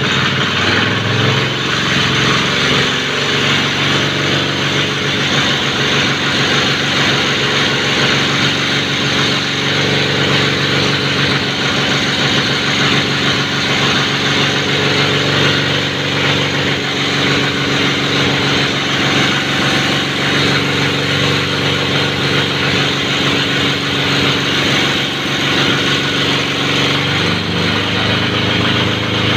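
Diesel engine running steadily while fed through a test fuel filter made of banana-frond fibre, its pitch shifting slightly about a second in and again near the end.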